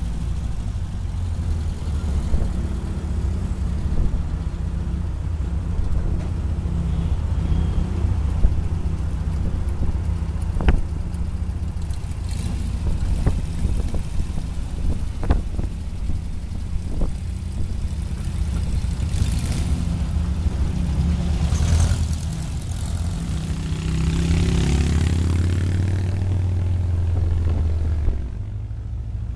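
Open VW Type 181 (Thing/Safari) on the move, its air-cooled flat-four engine running steadily under road noise, with a few sharp clicks and knocks in the middle. The engine settles into a steadier low tone near the end, then drops away.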